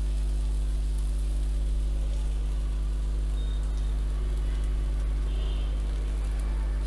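Pakoras of noni greens, rice flour and gram flour sizzling steadily in a little oil in a pan with round cavities, an even, rain-like hiss. A steady low hum runs underneath.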